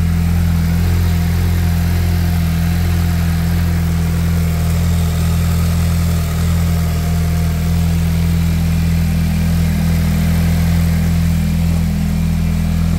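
2019 Volkswagen Jetta GLI's EA888 2.0-litre turbocharged four-cylinder idling steadily shortly after a cold start, heard at the open engine bay. It is fitted with an aftermarket open cone-filter intake, turbo inlet and turbo muffler delete.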